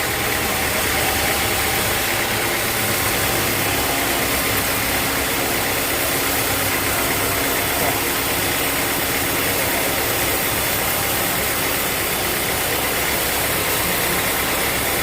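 Sawmill machinery running steadily with an engine-like drone and a constant noisy hiss, at an even level with no breaks.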